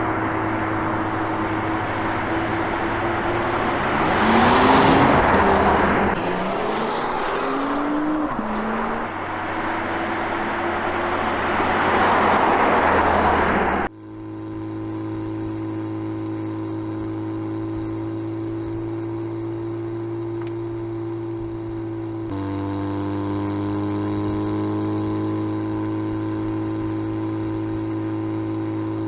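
Porsche Panamera 4 e-Hybrid's twin-turbo V6 and road noise as the car drives, with the revs rising twice in the first half. After a sudden cut comes a steady even drone that changes pitch once about two-thirds of the way in.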